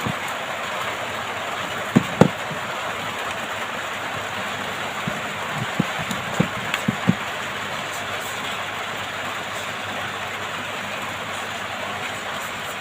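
Steady airy hiss of a hot air rework station blowing, with a few light clicks and taps about two seconds in and again around six to seven seconds in.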